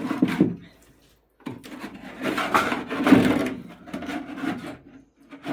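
Hand tool scraping and rubbing against a hard surface in irregular strokes, stopping briefly about a second in and then going on steadily.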